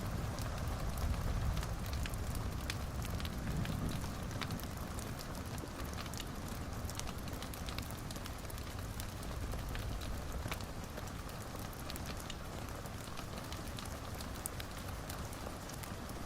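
Fire burning in a fireplace: a steady low rush of flames with scattered sharp crackles and pops at irregular intervals.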